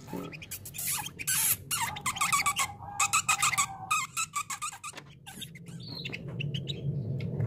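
Canary singing a fast, chattering song of rapid repeated trills and chirps, with a short pause about four seconds in before it starts up again.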